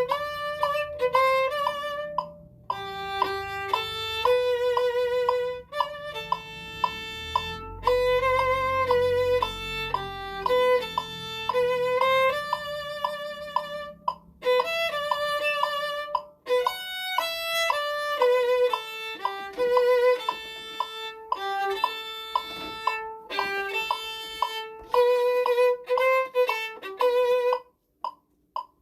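A violin playing a melody one note at a time, with vibrato on the held notes and brief breaks between phrases.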